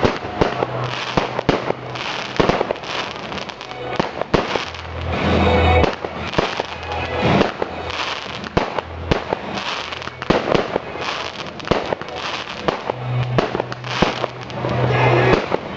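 Fireworks going off: a rapid, irregular string of bangs and crackles that never lets up.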